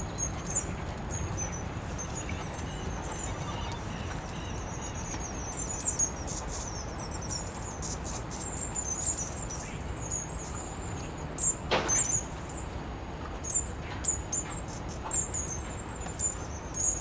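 Small birds chirping, short high notes repeated again and again, over a steady low background rumble.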